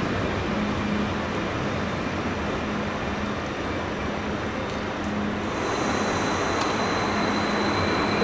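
Passenger train running past with a steady rumble. A thin, high whine joins about five and a half seconds in.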